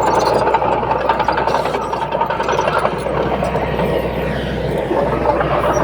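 Heavy earthmoving machinery's engine running steadily.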